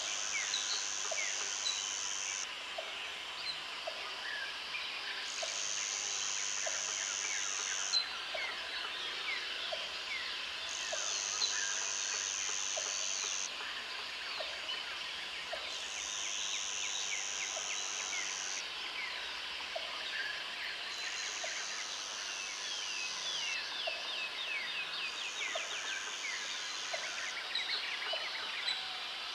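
Tropical forest chorus of insects and birds: a high insect buzz swells in six bouts of about two and a half seconds with pauses between, over many overlapping bird chirps and whistles and a soft short note repeating about once a second.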